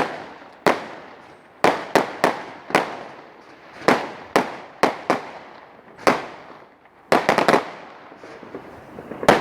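Fireworks going off all around: a string of sharp bangs at irregular intervals, each with a short echoing tail. A quick rattle of several bangs comes about seven seconds in.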